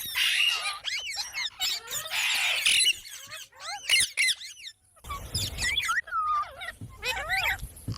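A pet parrot chirping rapidly in quick rising and falling notes, with a few harsh squawks mixed in. A low rumble joins the calls from about five seconds in.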